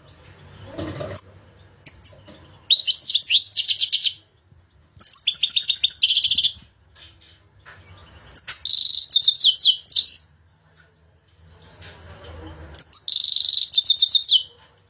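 European goldfinch singing: four phrases of rapid, high twittering notes, each about a second and a half long, separated by short pauses.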